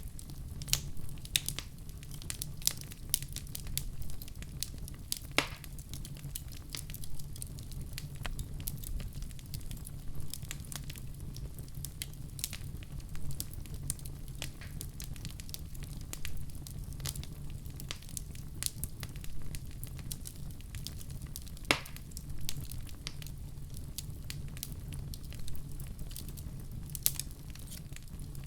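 Wood fire crackling, with a steady low rumble of flames under frequent irregular snaps and pops; two louder pops stand out, about five seconds in and near twenty-two seconds.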